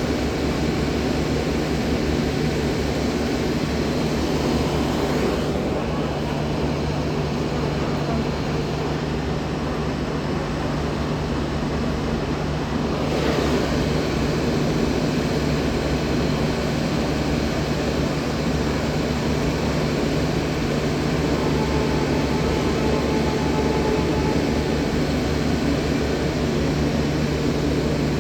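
Steady low engine drone, a constant hum with a noisy rush over it that changes little throughout.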